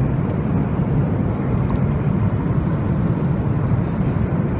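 Steady low rumble of cabin noise inside a Boeing 737 MAX 8 airliner, the engines and airflow heard from a passenger seat.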